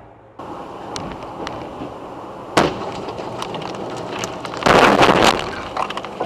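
Car collision heard on dashcam audio: a sharp bang about two and a half seconds in, then a louder crash with breaking lasting about half a second near the five-second mark, over steady road noise.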